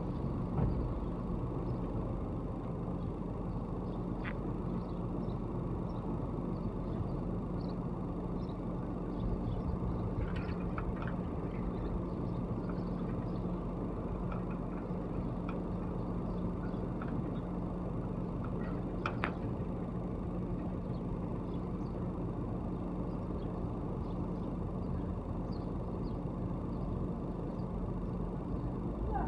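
Steady outdoor background hum with a constant low droning tone, the kind of sound distant road traffic makes. There are a few faint short ticks now and then, the clearest about nineteen seconds in.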